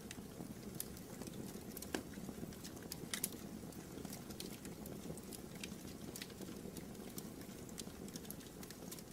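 Wood fire burning in a fireplace: a low, steady rush of flame with scattered sharp crackles and pops, the loudest about two and three seconds in.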